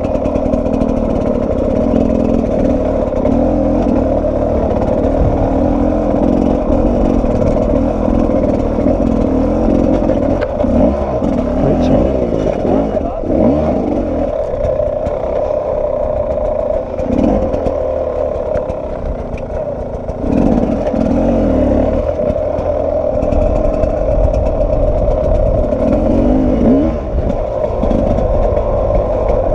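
Sherco 300 SE-R two-stroke enduro motorcycle engine running on the move, its revs rising and falling repeatedly with the throttle, with rattling from the bike over rough ground.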